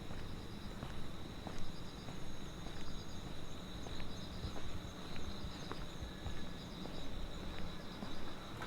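Night insects chirping: one steady high trill with pulsed chirps repeating about once a second over it, along with footsteps at a walking pace and a low hum underneath.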